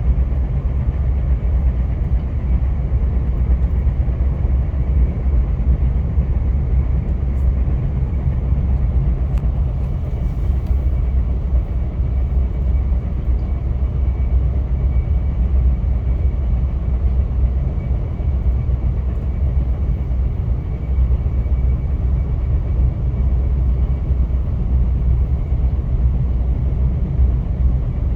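Via Rail passenger train running along the track: a steady low rumble with a faint high tone held above it.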